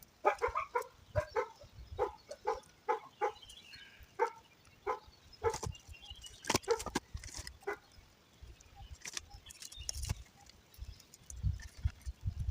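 Short, pitched animal calls, repeated about every half second for the first five seconds, then scattered sharp cracks and pops of a campfire burning.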